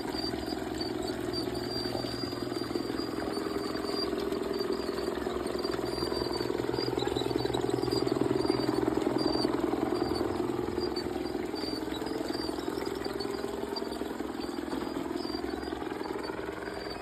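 G scale model train running on the garden layout, a steady motor whir with wheel clatter. It grows louder to about halfway through and then fades as it moves away.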